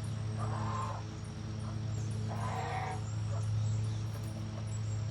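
Poultry calling: two harsh calls about two seconds apart, with faint high peeps from chicks, over a steady low hum.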